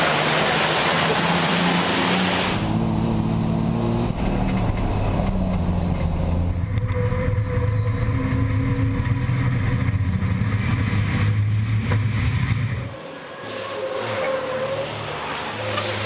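Racing trucks' turbo-diesel engines running hard at speed, the engine note stepping in pitch several times. The sound drops away briefly about 13 seconds in, then builds again.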